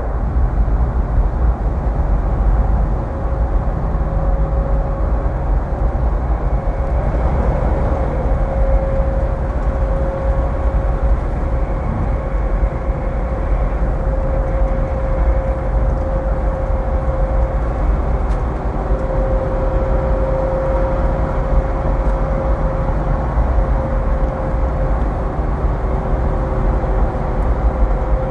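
Vehicle running at a steady highway speed: unbroken engine and road noise with a low rumble and a constant hum.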